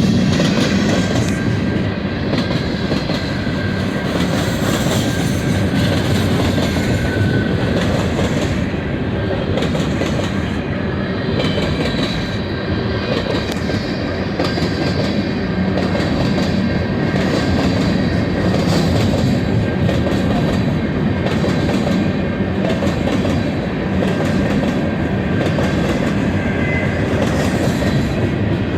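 Freight cars of a CN freight train rolling past, their wheels clicking over the rail joints in a steady clickety-clack, with a faint wheel squeal now and then.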